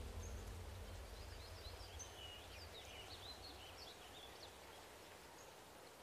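Faint outdoor ambience fading away: a small bird chirps a quick run of high notes for the first few seconds over a low rumble and steady hiss.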